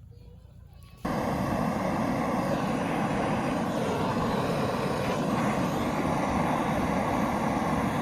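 A steady, loud rumbling noise that starts abruptly about a second in and holds unchanged, like a running engine or vehicle.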